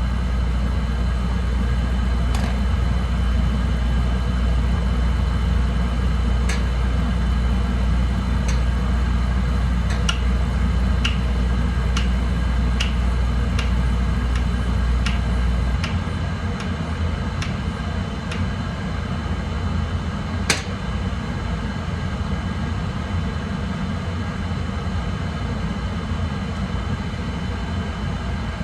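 Oil-fired boiler's burner running with a steady deep rumble; the lowest part of the rumble drops away about halfway through. Light clicks and ticks sound over it, with one sharper click a little past the middle.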